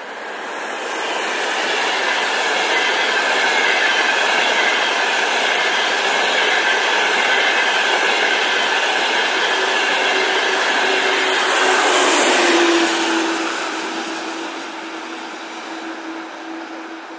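Frecciarossa ETR 500 high-speed train running through the station at speed. A loud steady rush of wheels and air builds over the first couple of seconds, is loudest about twelve seconds in as the end of the train passes, then fades as it moves away.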